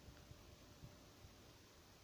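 Near silence, with a few faint low bumps of handling.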